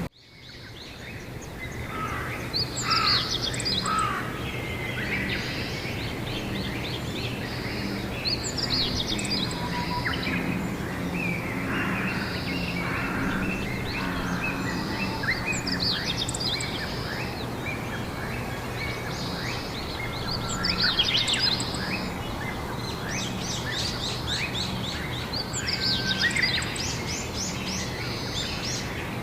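Songbirds singing outdoors, phrases of quick trills and chirps coming every few seconds, over a steady background of outdoor noise with a low hum. The sound fades in over the first couple of seconds.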